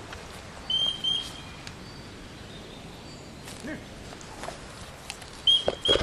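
Forest ambience with a bird's short, clear chirps: two about a second in and a quick run of several near the end, with a few faint rustles and clicks between.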